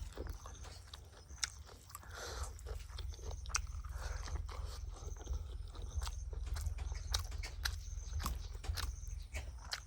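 Close-up mouth sounds of someone eating: chewing and crunching, with many irregular sharp clicks.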